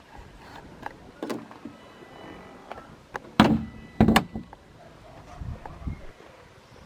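Clicks and knocks from a car's interior fittings being worked, with two loud thuds close together about three and a half seconds in.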